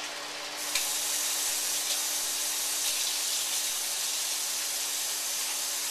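Pork rib tips sizzling in a hot wok in oil, soy sauce and wine: a steady hissing sizzle that grows a little louder and brighter about half a second in. A faint steady low hum runs underneath.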